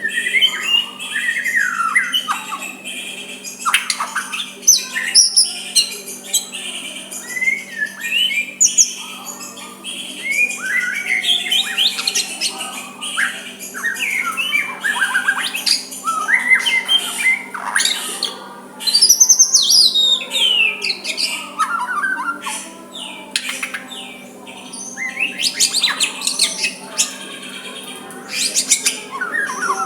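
White-rumped shama singing a continuous, varied song of whistled notes, rising and falling sweeps and short harsh notes, with one loud high sweep falling in pitch a little past the middle. A steady low hum runs underneath.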